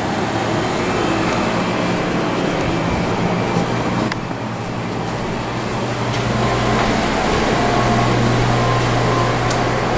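Vintage room air conditioner running: a steady rush of air with a low hum, the hum growing stronger about seven seconds in.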